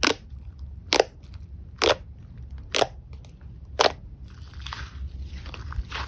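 Rainbow slime being handled by hand: five sharp pops about a second apart, then a denser run of soft crackling and squishing near the end.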